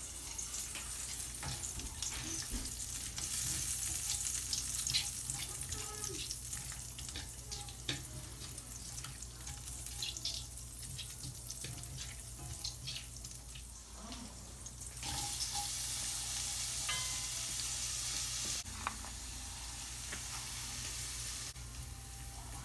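Garlic and onion sautéing in butter in a frying pan: a steady sizzle that swells and eases, with scattered clicks of a utensil against the pan as they are stirred.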